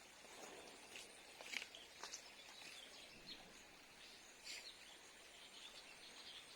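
Faint outdoor background with a few short, high bird chirps, the loudest about one and a half seconds in and about four and a half seconds in.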